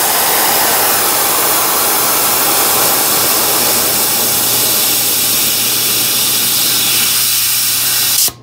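Safety (pressure relief) valve on a California Air Tools 8010 air compressor tank pulled open by hand, venting air at 120 psi in a loud, steady hiss that cuts off abruptly near the end when the valve is let go. The valve is working as it should.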